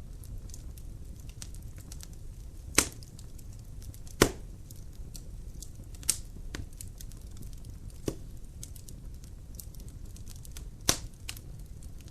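Wood fire in a fireplace: logs crackling over a steady low rumble of flames, with many small ticks and five loud pops, about 3, 4, 6, 8 and 11 seconds in.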